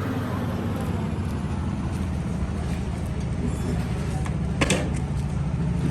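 An engine running steadily at a low, even rumble, with a couple of sharp metallic knocks about four and a half seconds in.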